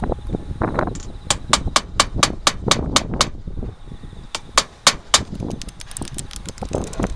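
Fasteners being driven on a roof, sharp strikes in quick succession: about nine evenly spaced at roughly four a second, a short pause, four more, then a faster, lighter run near the end.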